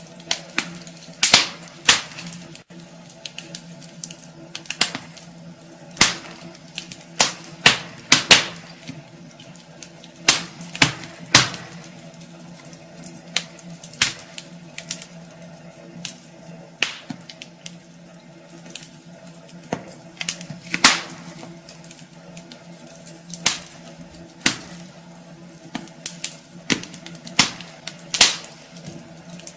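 Wood fire burning in a fireplace, logs crackling and popping irregularly, with several sharper, louder snaps. A steady low hum runs underneath.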